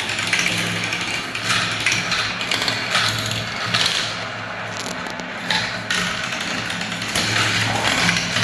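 Marbles rolling down a spiral-ramp marble run: a steady rolling rumble with many irregular small clicks and clacks as the balls strike the track and each other.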